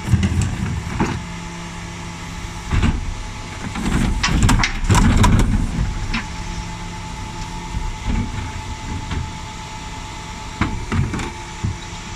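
Refuse truck with its bin lift at work: a steady engine and hydraulic hum, single knocks, and a burst of clattering about four to five seconds in as a wheelie bin is lifted and tipped.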